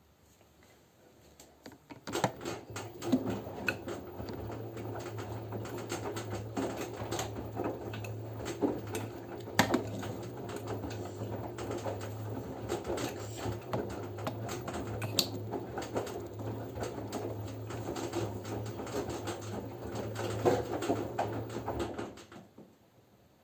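LG F10B9LD front-loading washing machine in its wash phase. The drum turns for about twenty seconds, with a steady motor hum under the irregular knocks and patter of wet laundry tumbling. It starts about two seconds in and stops near the end, the usual turn-and-pause rhythm of a wash cycle.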